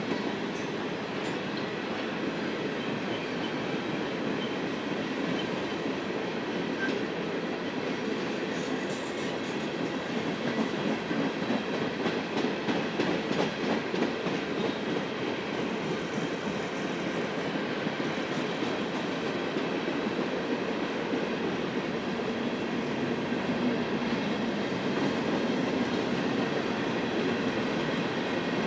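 Freight train cars rolling past steadily, a continuous rumble of wheels on rail with scattered clicks and a faint high wheel squeal near the start.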